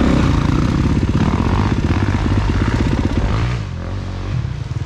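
Dirt bike engine suddenly throttled up hard, held at high revs for about three and a half seconds, then easing off to a lower, steadier run.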